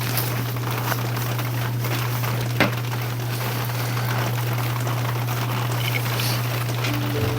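Rain falling in a steady hiss with scattered drop ticks, over a steady low hum, and one sharper tick about two and a half seconds in.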